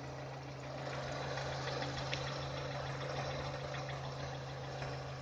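Nissan Almera G15's engine idling steadily with a clacking knock running through it.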